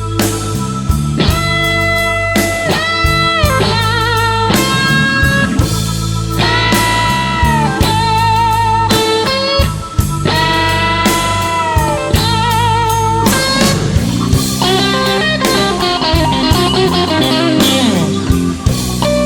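Blues band playing an instrumental break: a lead guitar solo with bent, sliding notes and vibrato over bass and drums.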